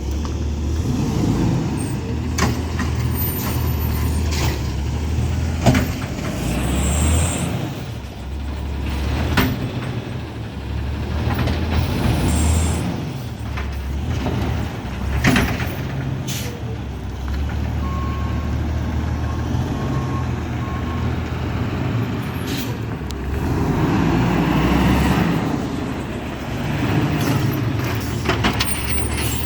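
Garbage truck with an automated side-loading arm, its engine running steadily, with several sharp knocks and clanks from the truck and two short air hisses.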